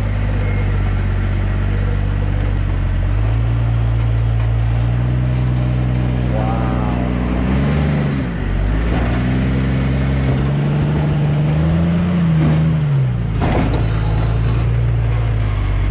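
Rock-crawler buggy's engine running under load, its pitch rising and falling as it revs up in bursts to climb over rocks, with a sharp knock near the end.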